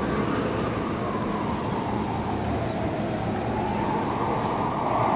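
Electric train running: a steady rumbling noise with a faint whine that dips in pitch and then rises again.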